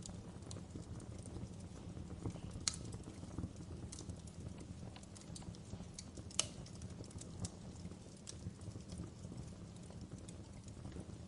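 Wood fire burning in a fireplace: a steady low rumble of flames with irregular crackles and pops, two sharper snaps about a third and about halfway through.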